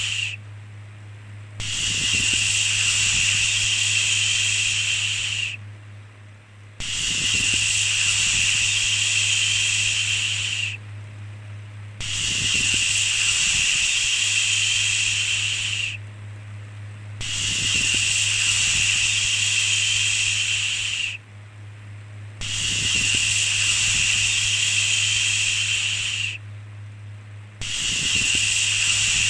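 Repeated long 'shhh' shushing sounds, each lasting about four seconds with a short pause of about a second between them, over a steady low hum.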